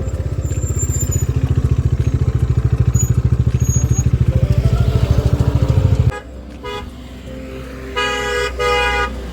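Motorcycle engine running with a fast, even thumping beat that cuts off suddenly about six seconds in. A vehicle horn then honks twice near the end.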